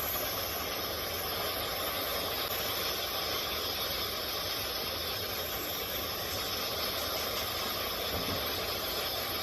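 Steady, even rushing noise with a low rumble underneath, unchanging throughout, with no distinct knocks or tones.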